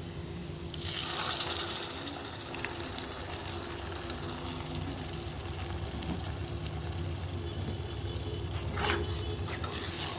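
A wet spice paste goes into hot oil with fried onions and sizzles sharply about a second in, then settles into a steady frying crackle. A spatula starts stirring near the end, stirring up more sizzling.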